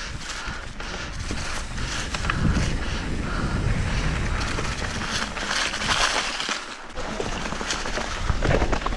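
Mountain bike riding over a rough dirt trail: tyre crunch and frame rattle with frequent small knocks over a low rumble.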